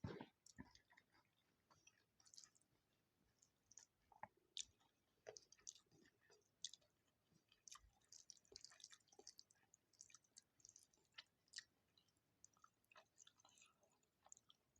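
Faint, close-miked chewing and mouth sounds of someone eating rice, dal curry and fried Aloo 65 potato: soft, irregular clicks and short crackles.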